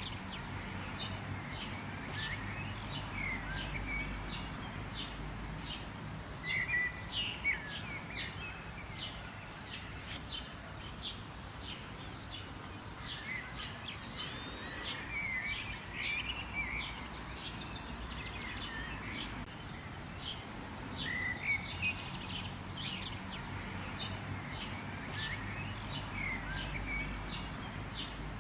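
Several birds calling and singing together, with many short, quick chirps and brief warbled phrases, over a steady low background hiss and rumble.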